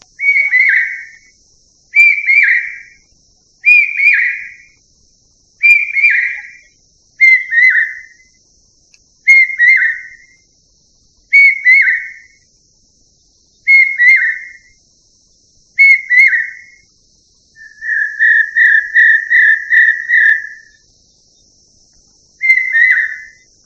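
A bird's loud whistled call, one note of about a second repeated every two seconds or so, then a quick run of about six short notes about three-quarters of the way through, and one more note near the end. Under it runs a faint steady high-pitched insect drone.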